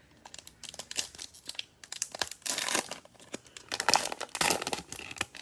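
Plastic packaging crinkling and tearing as it is handled, in irregular bursts that are loudest in two stretches, about two and a half and four seconds in.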